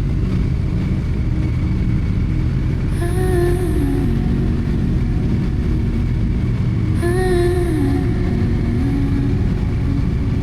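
Motorcycle engine running steadily under a deep house track. A short melodic phrase of the music recurs about every four seconds.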